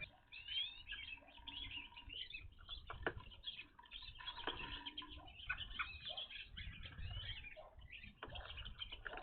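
A flock of evening grosbeaks calling, many short high chirps overlapping without a break, with two sharp knocks about three and four and a half seconds in.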